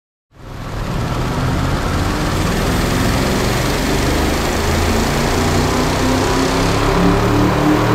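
2021 Audi RS7's twin-turbo 4.0-litre V8 pulling under load on a hub dyno in fourth gear on its stock tune, the engine note climbing slowly and steadily as the dyno ramps the revs up. The sound comes in abruptly about a third of a second in.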